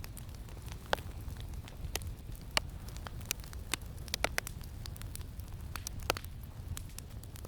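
Campfire crackling, with irregular sharp pops of burning wood over a steady low rumble of wind.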